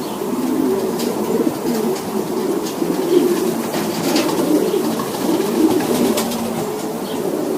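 Many racing pigeons cooing continuously, their calls overlapping, with a few sharp clicks scattered through.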